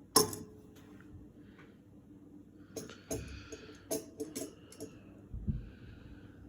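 Handling noise: one sharp knock just after the start, then a run of lighter clicks and brief rustles in the middle and again near the end, over a faint steady hum.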